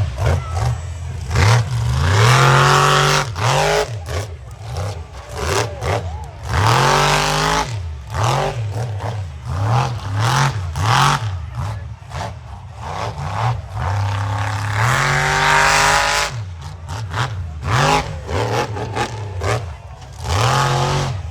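Monster truck engine revving hard over and over, its pitch climbing and dropping with each blip of the throttle, with a few longer held revs.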